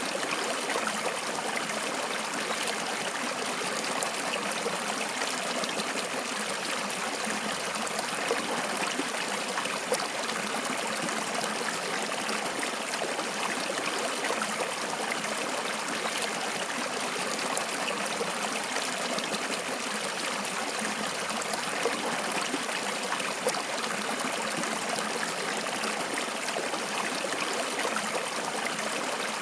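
Stream water flowing and trickling steadily, a continuous even rushing with fine splashing.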